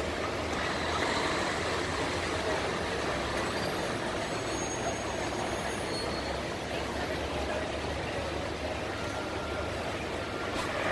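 Steady rumble of vehicle traffic, even and unbroken, with no single event standing out.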